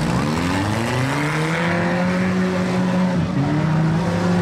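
Engines of stock compact demolition-derby cars revving hard on a dirt track. One engine climbs in pitch at the start and holds high, then drops about three seconds in and climbs again, over the rougher running of the other cars.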